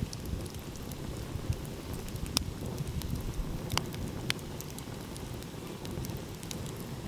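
Wood fire crackling, with a few sharp pops standing out about two to four seconds in, over a steady low rumble.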